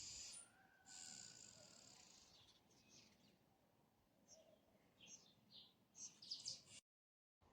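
Faint, high bird chirps and short trills, scattered through the stretch and ending in a brief dropout to dead silence near the end.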